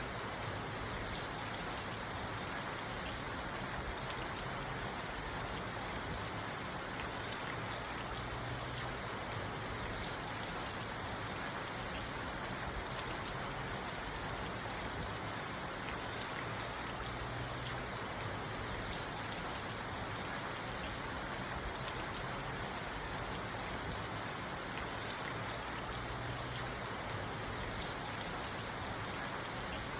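Steady rain falling on a parked car, heard from inside the cabin.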